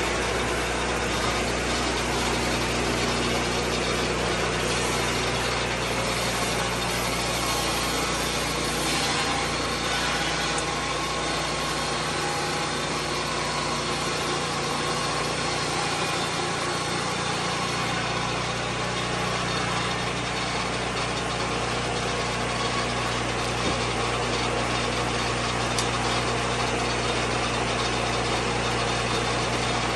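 Lucas Mill 10-30 swing blade sawmill's engine running steadily, with a dip in its low hum for a few seconds around the middle.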